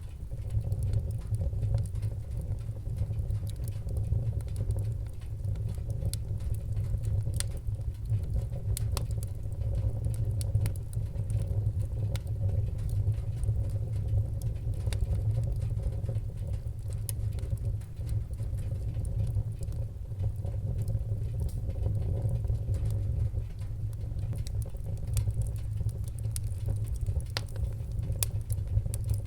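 Wood-burning fire crackling: frequent small, sharp pops and snaps scattered irregularly over a steady low rumble.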